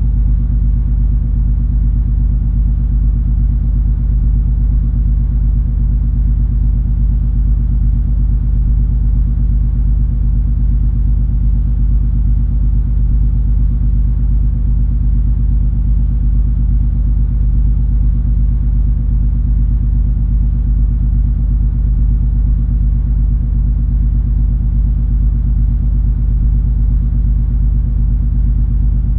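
Steady low drone of the cruise ferry MS Color Magic underway: a deep rumble with a few even hum tones layered over it. It holds constant throughout.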